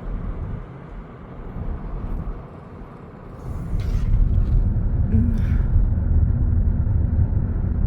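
Car driving, heard from inside with the side window down: a steady low rumble of engine, road and wind buffeting that grows much louder about three and a half seconds in.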